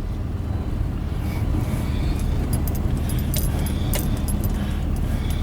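Car cabin noise while driving: a steady low rumble of engine and road. From about two and a half seconds in there are scattered light clicks.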